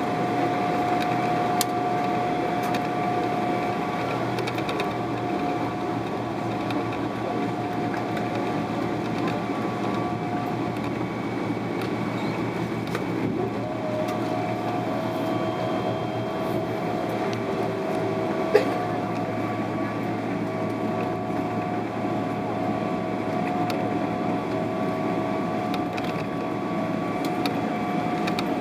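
Steady cabin noise inside a Boeing 777-300ER: a low hum under a constant whine, the whine dipping slightly in pitch about halfway through and then holding. A single sharp click about 18 seconds in.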